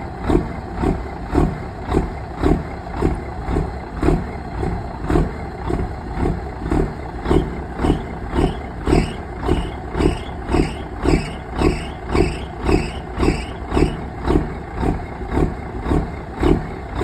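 Cummins 855 inline-six diesel in a semi truck, running steadily just after a cold start, with an even pulse in its sound about twice a second.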